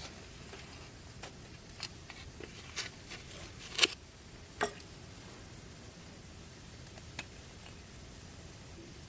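A few short, sharp clicks and taps, the loudest just under four seconds in and another shortly after, over a faint steady hiss.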